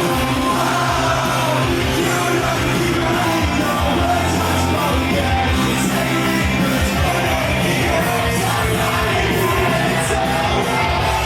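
Loud emo-style rock music with singing and yelling, playing steadily throughout.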